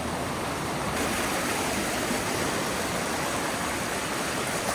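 Steady rush of fast-flowing water from a creek swollen by heavy rain.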